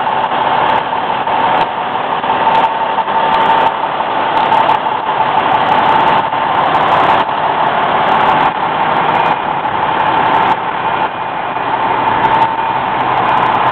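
Fire engine's engine idling steadily.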